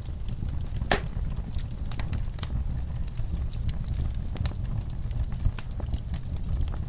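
Wood fire burning in a fireplace: a steady low rumble of the flames with irregular crackles and snaps of burning logs, one sharper pop about a second in.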